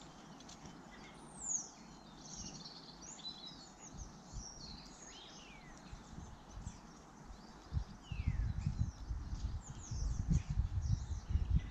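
Garden birds chirping and whistling, with several quick falling whistles. From about eight seconds in, a low rumbling with irregular bumps comes in under the birdsong.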